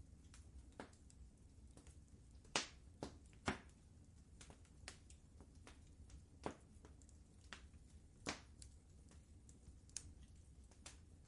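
Wood fire crackling in a fireplace: scattered sharp pops and snaps at irregular intervals, a couple of louder ones a few seconds in, over a faint low rumble.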